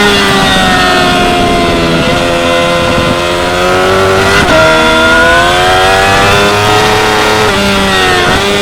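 2016 Yamaha R6's 600 cc inline-four engine running hard on a race track. Its revs rise and fall repeatedly, with sudden pitch drops at gear changes about two seconds in and again halfway through.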